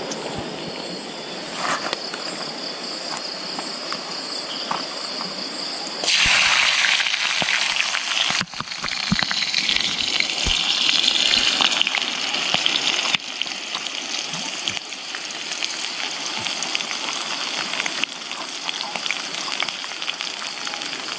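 Stir-fry ingredients sizzling in hot oil in a wok on a portable gas stove. The sizzle turns suddenly much louder about six seconds in and eases off again about thirteen seconds in. Crickets chirp through the first few seconds.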